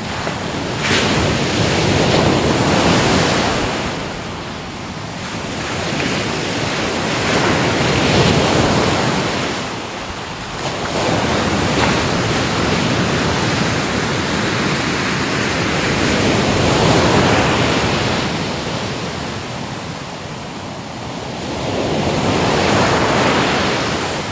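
Ocean surf: waves breaking and washing in, the sound swelling and ebbing about five times, every four to six seconds.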